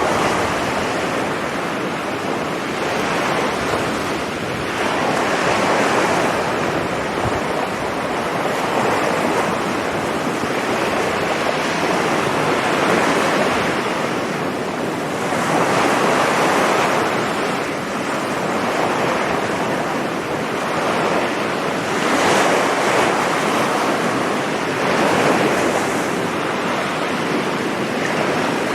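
Sea waves breaking on a beach: a continuous wash of surf that swells and eases every few seconds as each wave comes in.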